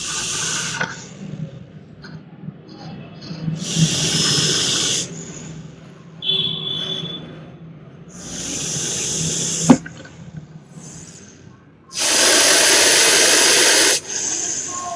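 Russell's viper hissing in four separate long, forceful hisses with quieter pauses between them, the last the loudest and longest; one sharp click partway through. The loud, drawn-out hiss is this viper's defensive warning when agitated.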